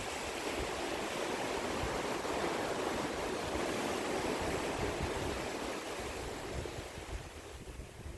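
Ocean waves washing onto the shore: one long swell of surf that builds over the first few seconds, holds, and then draws back near the end.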